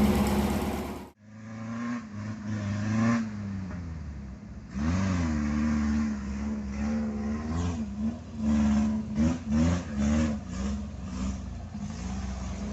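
Off-road buggy engine running and revving, its pitch rising and falling again and again, with several quick throttle blips in the second half. A louder steady sound cuts off abruptly about a second in.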